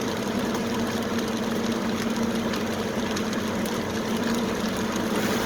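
Steady hum of a car's engine and running gear, heard from inside the cabin.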